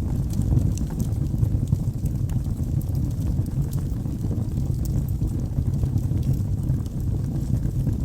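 Wood fire burning in a fireplace: a steady low rumble of the flames with scattered small crackles and pops from the logs.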